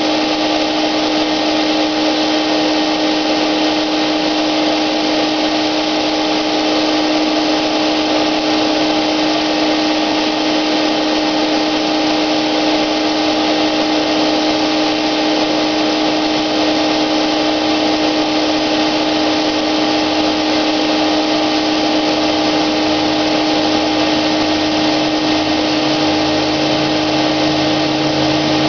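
Wagner electric paint sprayer running steadily while spraying: a continuous motor whine over a rushing hiss. Near the end a lower pulsing hum joins in.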